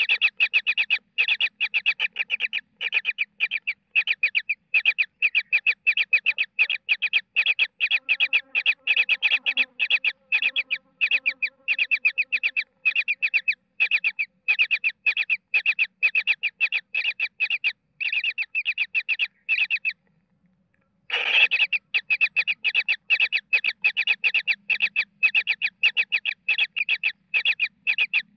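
Baby kingfisher chicks giving fast, repeated harsh calls, about five a second, typical of begging for food. The calling breaks off for about a second some twenty seconds in, then starts again with one louder call.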